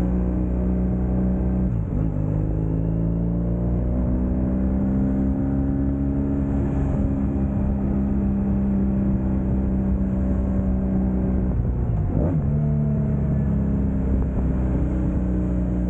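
Motorcycle engine running at road speed, with wind and road noise. The engine note dips sharply and climbs again twice, about two seconds in and about twelve seconds in.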